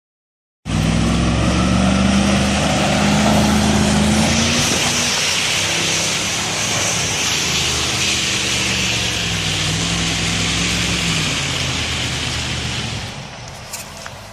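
A 4x4's engine running hard at high revs as it climbs a muddy hill, holding a high pitch with small rises and falls under a loud hiss. It starts abruptly just under a second in and drops off near the end.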